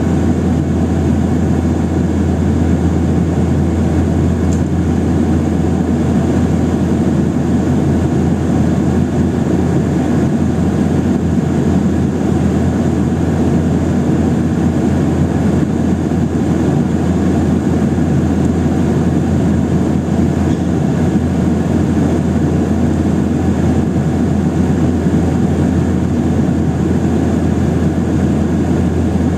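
Steady cabin noise inside a Boeing 737-800: the drone of its CFM56-7B turbofan engines and airflow, with a strong low hum and no change in level throughout.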